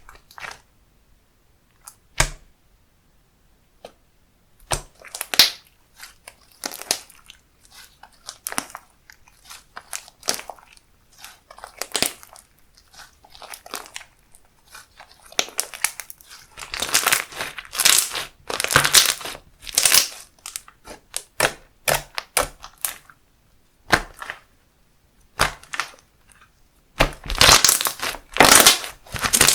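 Slime being squeezed and kneaded by hand, with irregular runs of crackling, squishing pops. It is sparse at first and comes in denser bursts in the second half.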